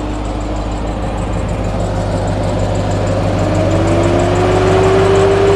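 Off-road truck's engine running steadily with the steering turned to full lock, while the front suspension is checked for a noise. About halfway through, a tone rises slightly in pitch and gets louder, then holds.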